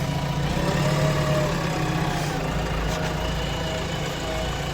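JCB's diesel engine running steadily at low revs as the machine is parked, a continuous low hum.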